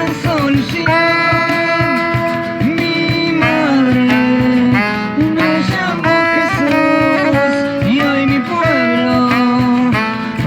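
A rock band plays an instrumental passage between sung lines, with a melody of held notes over steady drum hits.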